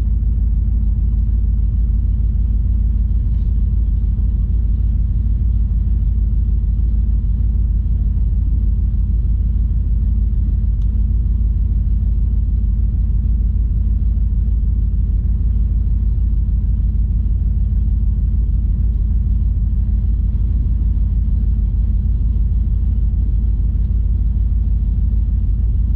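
A steady low rumble that holds the same level and pitch throughout.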